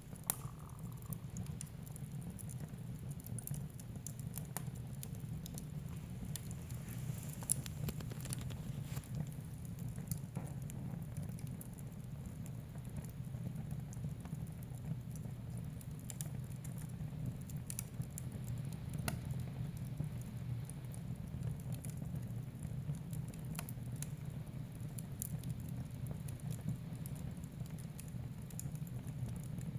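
Wood fire crackling in a fireplace: scattered sharp pops and ticks over a steady low rumble of the flames.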